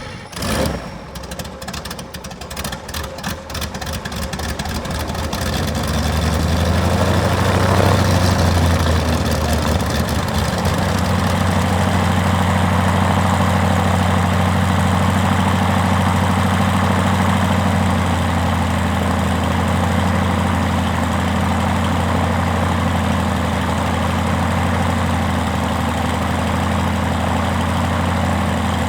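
Rotec R2800 seven-cylinder radial aircraft engine being started: it cranks and fires unevenly for the first few seconds, catches about five seconds in, picks up revs, then settles into a steady run.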